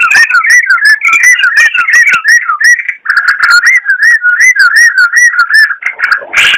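Yellow-vented bulbul (trucukan) singing a fast, unbroken run of looping whistled notes, about five a second, with a brief break about three seconds in. Just before the end comes a louder, harsher note.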